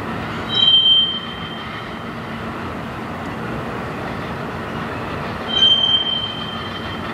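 Freight train cars rolling past with a steady rumble, broken twice by a short, high-pitched wheel squeal: once about half a second in and again near the end.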